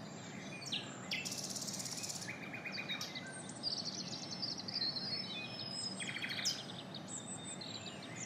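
Several small birds chirping and singing, with short calls and rapid trills coming one after another, over a steady low background noise.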